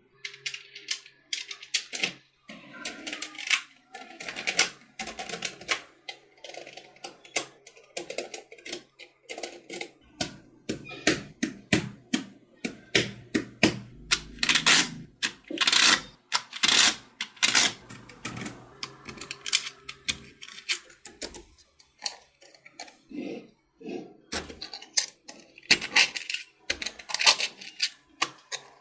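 Small magnetic balls clicking and clacking together as they are handled and snapped into place, in a fast, irregular run of sharp clicks.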